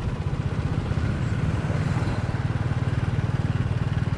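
Motorbike engine running steadily at cruising speed, a fast even low pulse under a constant rush of wind and road noise.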